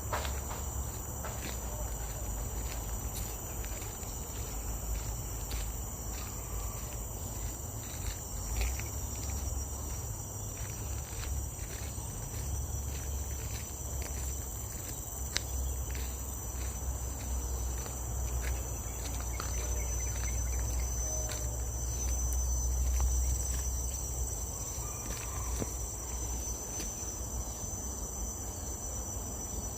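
Steady high-pitched drone of forest insects, with regular footsteps on a trail and a low rumble that grows a little past the middle.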